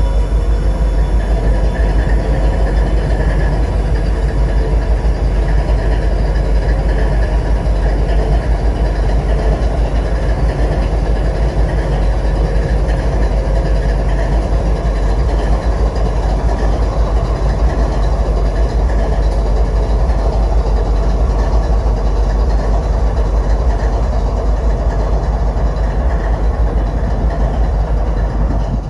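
Freight train running past, a loud steady rumble that is heaviest in the low end, with faint steady tones over it.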